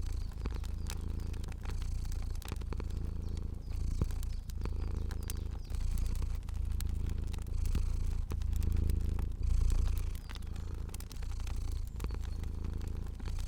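Domestic cat purring steadily, the purr rising and falling about once a second with its breathing, with scattered faint crackles of a fire.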